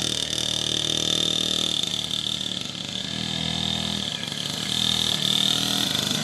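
Small dirt bike engine running, easing off around the middle and picking up again near the end, with a steady high whine alongside.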